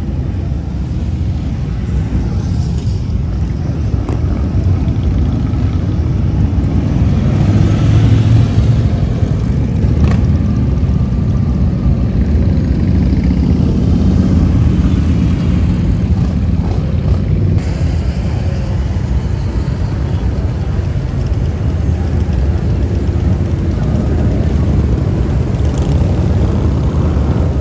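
Motorcycle engines running steadily in street traffic, swelling louder about eight seconds in.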